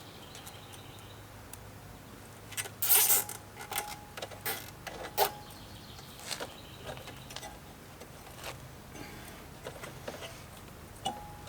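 Hands working on motorcycle parts: a burst of rattling, scraping clicks about two and a half seconds in, then scattered single clicks and knocks.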